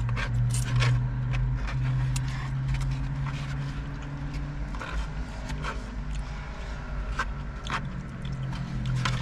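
Eating sounds: a utensil scraping and clicking against a takeout container, with chewing, over the steady low hum of an idling car.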